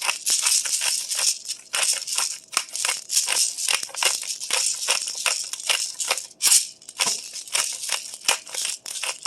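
Black pepper being shaken out of a spice container, many quick, irregular rattling shakes with brief pauses between them.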